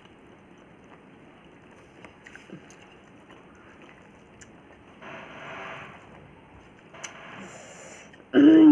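Quiet eating sounds: soft squishing, small clicks and chewing as dal and rice are eaten by hand. Near the end there is a short, loud vocal hum from the eater.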